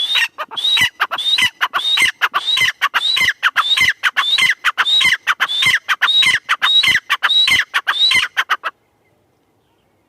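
Francolin (teetar) calling: a fast, even run of about fourteen high, rising-then-falling notes that stops abruptly with about a second left.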